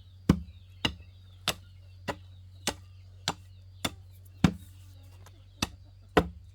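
A tool striking down into the soil again and again at a steady pace, about one blow every 0.6 seconds, tamping the earth around a post. A steady low hum runs underneath.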